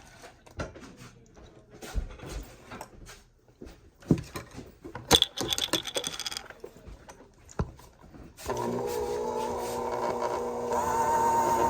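Kitchen clinks and knocks of utensils and dishes, then about eight seconds in an electric hand mixer starts and runs steadily with an even motor whine.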